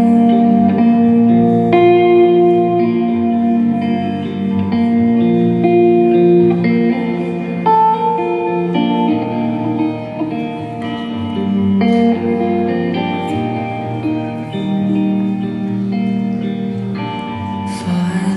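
Live rock song in an instrumental break, led by guitar playing sustained, ringing chords that change every second or two.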